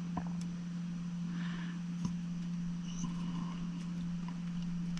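A steady low hum with a few faint light clicks and taps of small parts being handled and positioned by hand.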